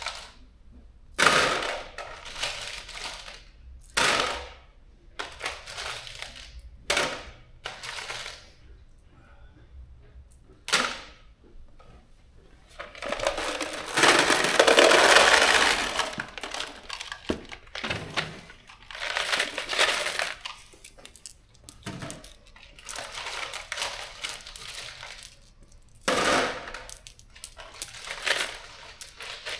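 Steel bolts clinking and rattling as handfuls are counted out and dropped into a bolt kit's compartments, in irregular bursts with a longer, louder pour about halfway through.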